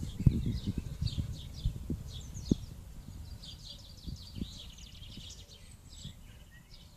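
Small birds chirping in quick runs of short, high notes. Low thumps and rumble come through during the first few seconds.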